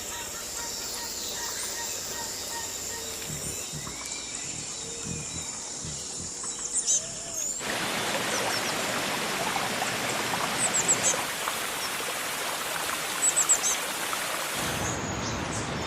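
Birds chirping and singing in short high calls over a steady hiss of background noise. The background hiss suddenly gets louder about eight seconds in and changes again near the end.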